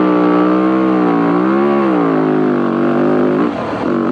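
Dirt bike engine pulling under throttle on the trail, its pitch rising and falling as the rider works the throttle, then dropping off about three and a half seconds in.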